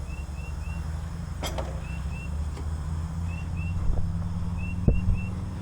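An engine idling with a steady low hum, with short high chirps repeating in twos and threes and a couple of sharp knocks, about one and a half and five seconds in.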